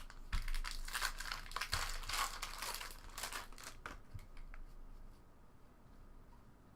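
Trading-card pack wrapper crinkling and tearing as it is opened: a dense run of rustles for about four seconds, then softer scattered handling noises.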